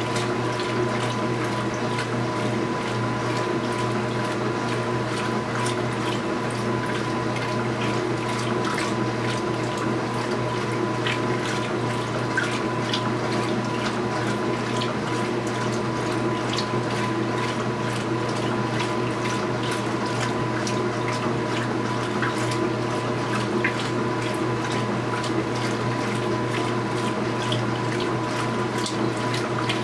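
Speed Queen top-load washing machine filling: water pours steadily into the tub over a constant electrical hum, with small splashes and ticks.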